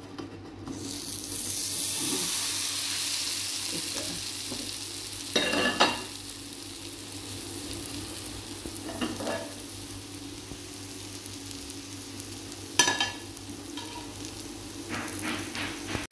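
A besan cheela (gram-flour pancake) hits a hot, oiled non-stick pan with water droplets on it and starts sizzling about a second in. The sizzle is loudest at first and slowly dies down to a steady fry, with a few brief clinks along the way.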